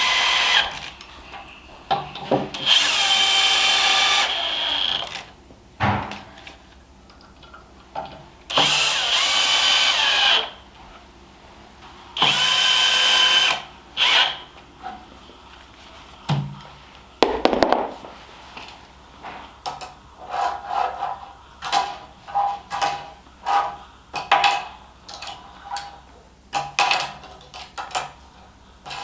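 A small electric motor whirring in four bursts of about two seconds each, with a steady high pitch, then a run of short clicks and clatter in the second half.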